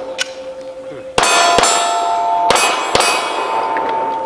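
Pistol shots at steel plate targets: four shots in about two seconds, starting about a second in. The struck steel plates ring on in sustained clanging tones after the hits.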